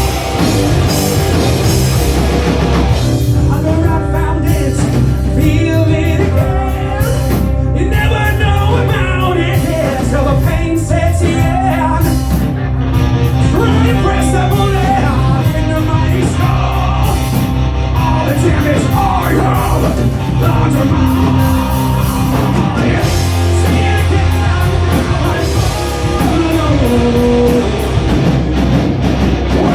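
Live rock band playing a song at full volume, with a singer's voice coming in about three seconds in.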